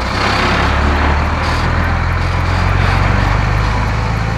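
Cartoon vehicle engine sound effect: a loud, steady engine noise with a low hum under a rushing hiss.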